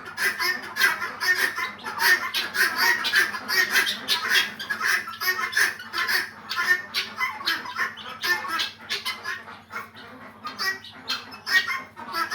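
A flock of guineafowl calling: many harsh, rapid squawks overlapping almost without a break, thinning for a moment about three-quarters of the way through.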